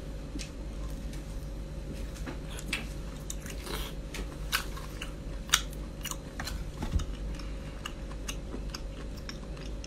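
Close-up biting and chewing of a whole cooked octopus, with scattered short wet mouth clicks. A faint steady hum runs underneath.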